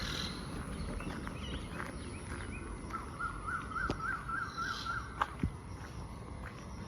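Birds calling over a steady outdoor background. About halfway through, a quick warble goes rapidly up and down for about two seconds. A few sharp clicks sound near it.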